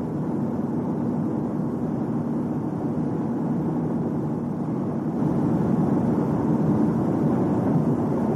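Car driving noise: a steady low rumble of road and engine noise, growing louder about five seconds in.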